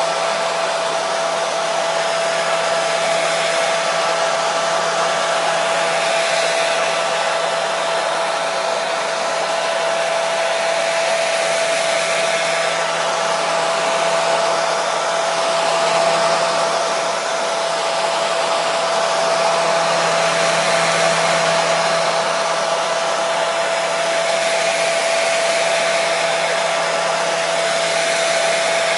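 Hair dryer running steadily: an even rush of air with a steady whine from its fan motor, played as white noise to calm a baby to sleep.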